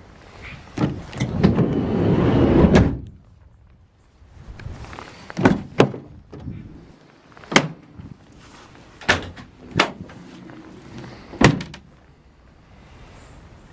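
Van doors being worked: the side sliding door rolling along its track for a couple of seconds and stopping abruptly, then a series of six sharp clunks and latch knocks as doors are opened and shut.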